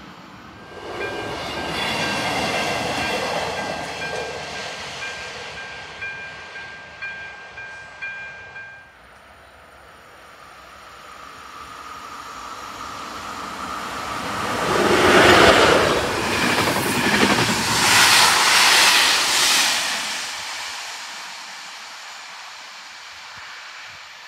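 A freight train running past on the main line with a steady high-pitched ringing tone over its rumble, cut off suddenly about nine seconds in. Then an express passenger train hauled by an electric locomotive approaches and passes at speed, loudest in the middle of the passage with a rapid clatter of wheels over the rail joints, and fades away.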